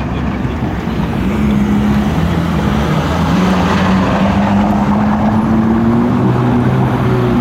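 Car's V8 engine running at low revs, its note growing louder about a second in and drifting a little in pitch, as at a slow cruise past.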